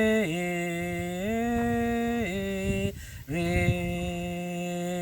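A solo voice singing a cappella, holding long drawn-out notes of a slow hymn and stepping between pitches, with a short breath about three seconds in before the next held note.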